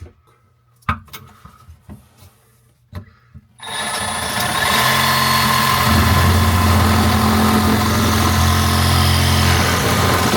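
A few light knocks, then about four seconds in a cordless Milwaukee Hackzall reciprocating saw starts and runs steadily with a low motor hum, rasping as it cuts through an old faucet fitting. The fitting is being cut out because it is too old and seized to unscrew.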